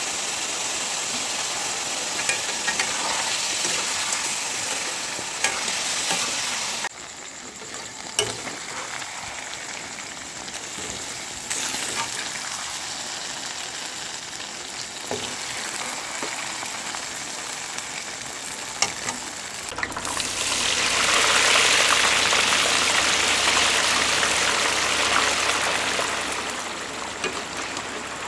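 Pork frying in a pan, sizzling steadily, with scattered clicks of a utensil stirring against the pan. Past the middle the sizzle swells much louder for several seconds, then eases off.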